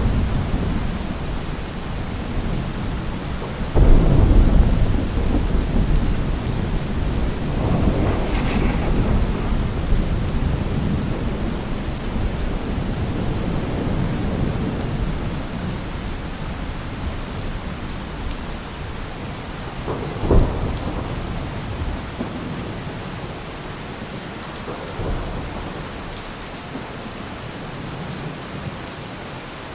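Thunderstorm: steady heavy rain with thunder, a loud clap about four seconds in rolling into long rumbles, a sharp short crack about twenty seconds in, and the rumbling dying down toward the end.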